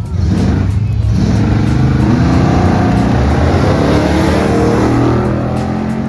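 Car engine at full throttle on a drag-strip launch, its pitch climbing briefly, dropping at a gear change about a second in, then rising slowly for several seconds before easing off near the end.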